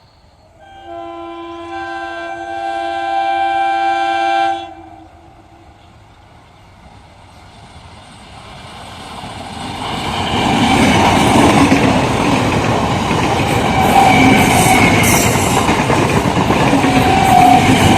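A train horn sounds one long blast of about four seconds that swells as it goes. Then a train approaches and passes close by, its rumble of wheels on the rails building to full loudness about ten seconds in, with a clickety-clack of wheels over rail joints.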